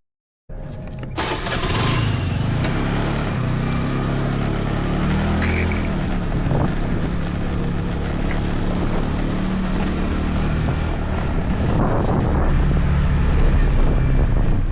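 Motor scooter being ridden: its small engine runs with the pitch shifting up and down, under wind noise over the microphone. The sound cuts in after a half-second silent gap at the start.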